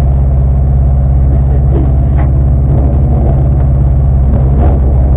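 Rally car engine idling steadily, heard from inside the caged cabin.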